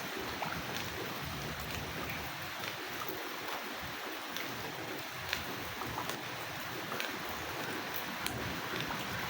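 Steady rain: an even hiss with scattered sharp ticks of drops striking.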